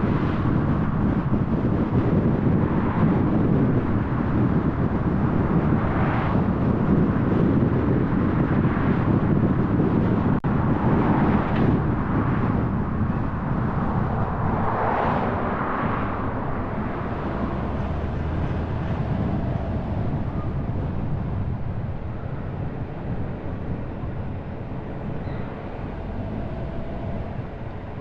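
Car driving on the road, with steady tyre and engine rumble and a few brief swells in the first half. It grows gradually quieter through the second half.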